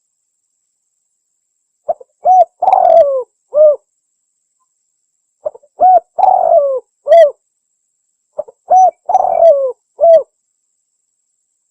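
Spotted dove (tekukur) singing its cooing song three times, about three and a half seconds apart. Each phrase is a couple of short coos, a longer coo that falls in pitch, and a last short coo.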